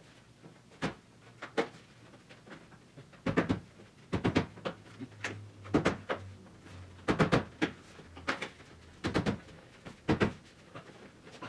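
Irregular knocks and clunks, some in quick pairs, from a dashboard pad being pushed and worked onto its mounting studs against a metal dash panel.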